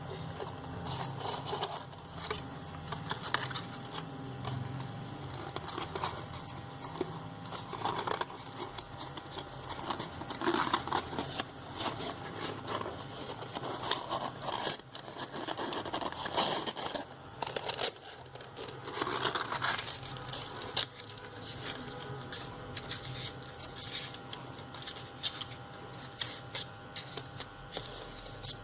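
Paper and thin card being handled: a glued, folded card-stock strip rustling, crinkling and scraping as it is pressed into place around a cardboard circle, in irregular small scrapes and clicks.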